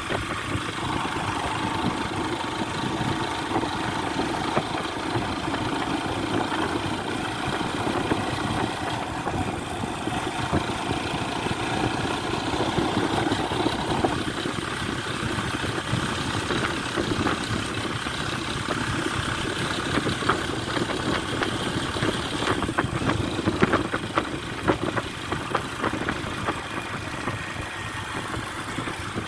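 A vehicle engine running steadily, with a scatter of short knocks in the second half.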